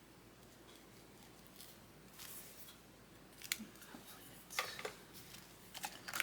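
Paper bills being handled: a few short, soft rustles and sharp clicks, the loudest about four and a half seconds in.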